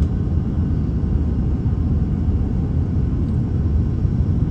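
Steady low rumble inside an airliner cabin on final approach, with engine and airflow noise and the landing gear extended.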